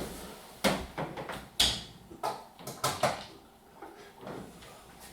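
A run of sharp knocks and clunks, about six in four seconds, from a tumble dryer being handled and slotted back into place.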